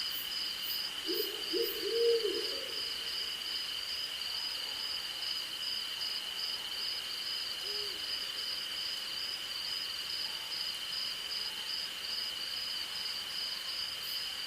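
Owl hooting: a quick run of three or four low hoots about a second in, and a single hoot near the middle. Under it runs a steady night chorus of crickets and insects: one unbroken high trill and a pulsing trill a little higher.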